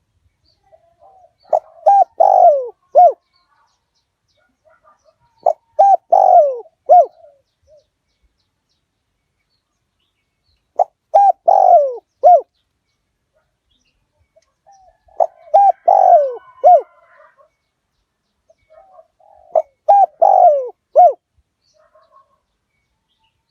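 Spotted dove cooing: five phrases of a few low coos, some falling in pitch, repeated about every four to five seconds with silence between.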